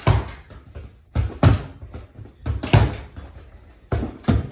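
Soccer ball passed repeatedly against a wall, each pass a pair of hard thuds, the kick and the ball striking the wall, about every 1.3 seconds.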